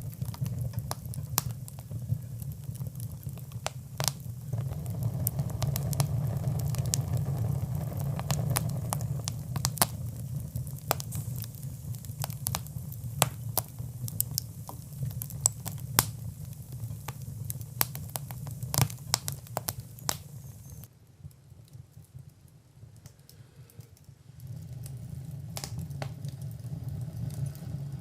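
Wood fire crackling, with frequent sharp pops and snaps over a low steady rumble. About three-quarters of the way through, the rumble and most of the pops drop away abruptly for a few seconds, then the rumble comes back.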